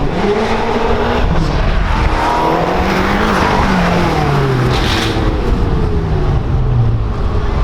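A sports car's engine revving hard as it drives past, its pitch climbing twice and then falling away steadily over the last few seconds.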